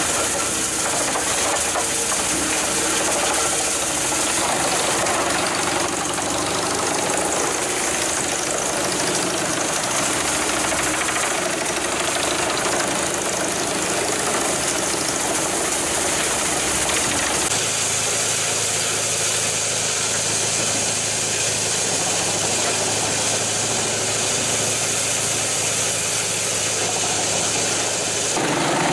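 Engines of heavy forestry machinery running steadily. About 17 seconds in the sound changes abruptly to a different machine with a steady low hum.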